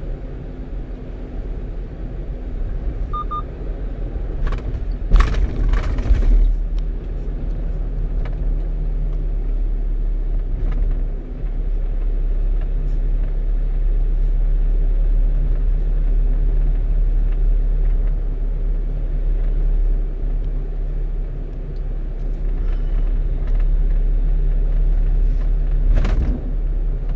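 One-ton truck driving along a road, heard from inside the cab: a steady low engine and road rumble, with a brief louder stretch about five seconds in.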